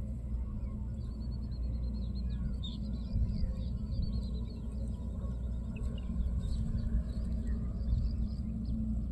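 Small birds chirping over a steady low rumble, with a quick run of repeated chirps about a second in and scattered single chirps after.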